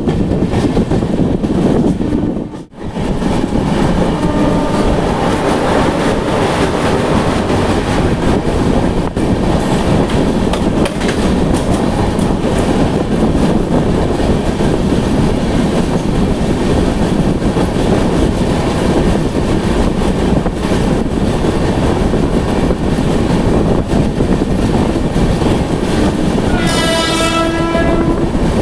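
Train running along the track with a loud, steady rumble and rail noise. Its horn sounds for about a second and a half near the end.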